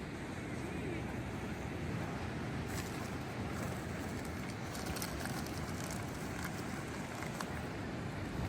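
Wind rumbling on the microphone over surf on the beach, a steady noise with a few faint clicks in the middle.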